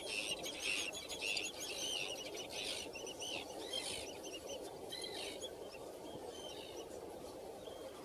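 Small birds chirping, many short rapid high chirps overlapping, busiest in the first three seconds and thinning out after, over a steady low background hiss.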